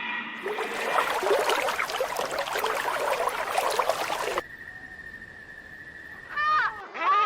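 About four seconds of dense, crackling noise that stops abruptly, then a steady high tone and two loud, short bird calls near the end.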